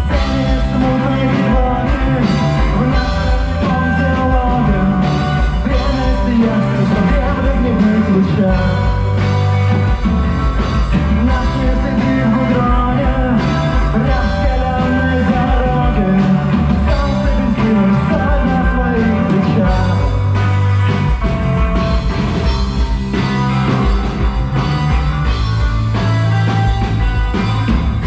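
A rock band playing live: drums, bass and guitars in a dense, steady psychedelic-rock groove.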